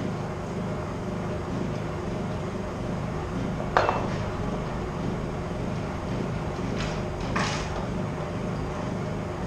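1983 Honda Shadow's liquid-cooled V-twin idling steadily on a stand, with a sharp metallic clank about four seconds in and a shorter clatter about seven seconds in.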